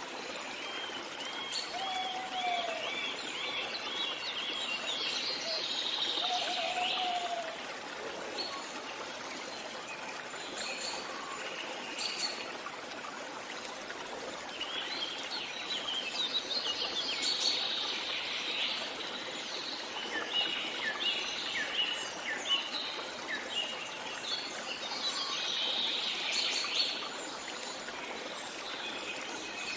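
Several birds chirping and trilling in repeated bursts over a steady rush of flowing water. A few low whistled notes come in the first several seconds.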